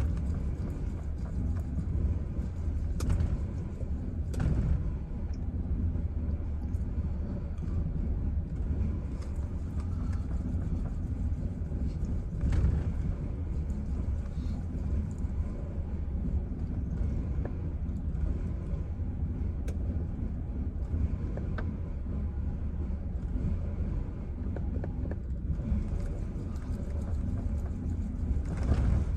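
Chevrolet Silverado pickup engine idling with a steady low rumble that wavers unevenly, a very rough idle.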